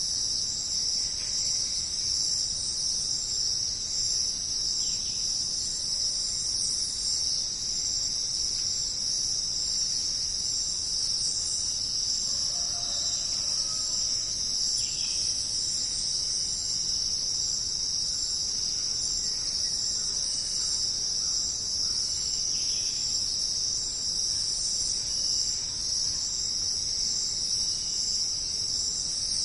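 Dense rainforest insect chorus: a steady, unbroken high-pitched shrilling from many insects calling together, with a few faint short calls below it about midway.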